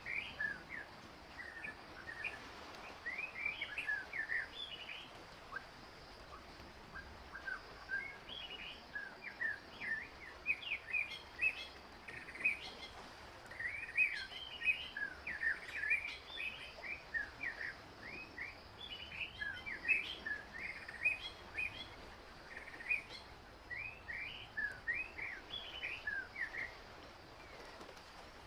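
Small birds chirping busily: a steady run of many short, high chirps, some sweeping up or down in pitch, over a faint background hiss.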